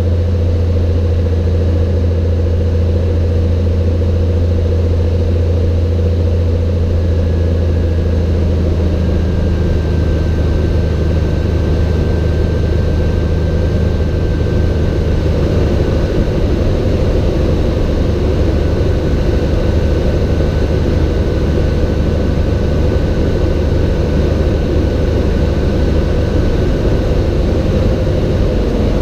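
A Cessna 182's piston engine and propeller give a steady, loud drone. The low tones of the engine shift slightly about a third of the way in. A faint, thin high tone comes and goes through the middle.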